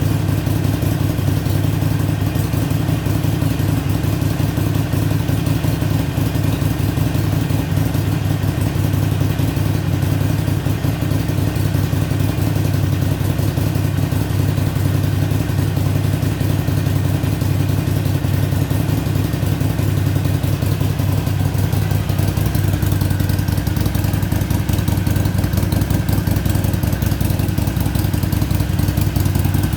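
2014 Harley-Davidson Iron 883 Sportster's air-cooled V-twin idling steadily through its stock exhaust.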